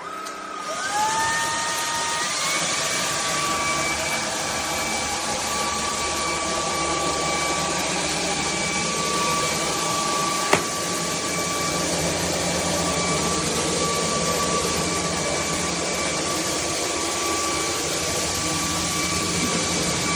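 Bulelink cordless stick vacuum's motor starting up, its whine rising over about two seconds, then running steadily with a high whine. One sharp click about ten seconds in.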